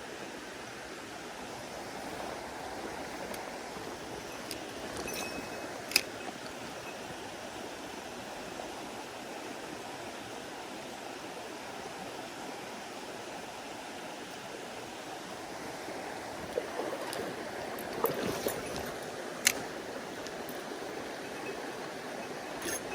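A mountain stream running steadily, with a few sharp clicks: one about six seconds in and several in the last third.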